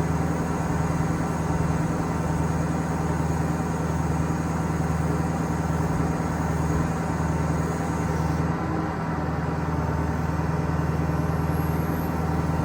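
Ford F550 bucket truck's Power Stroke turbo diesel engine running steadily, with a slight drop in sound about eight and a half seconds in.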